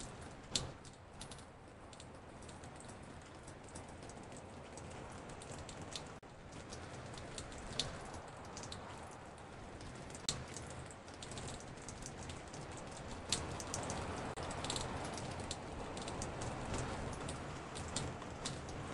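Raindrops dripping onto a porch: many scattered drips over a steady rain hiss, with a few sharper, louder drops, the rain growing a little heavier in the second half.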